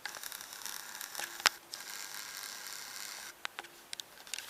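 Rustling handling noise with a few sharp clicks, the loudest about a second and a half in; the rustling stops a little past three seconds, leaving a few small clicks.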